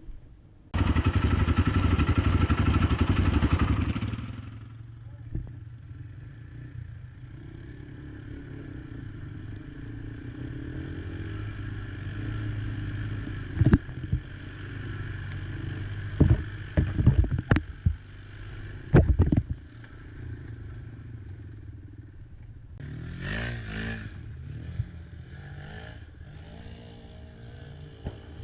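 Quad engine revving hard for about three seconds, then running at low revs, with several sharp knocks a little past the middle.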